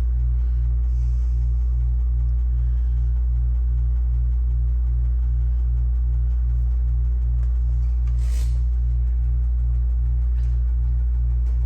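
Macintosh Classic's internal floppy drive erasing (formatting) a 400K single-sided disk. It gives a steady low hum with a regular pulsing about three times a second as the drive works through the disk.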